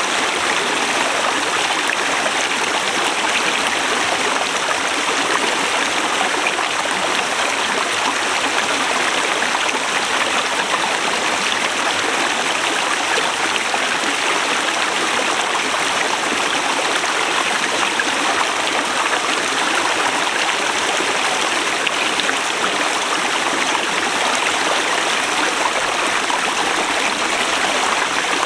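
A forest river rushing steadily over rocks, a constant full rush of flowing water.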